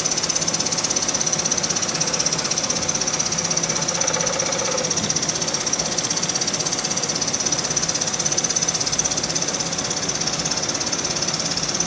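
1921 Empire B30 toy live-steam engine running steadily under steam, its piston and exhaust beating in a rapid, even rhythm with a steady high hiss over it.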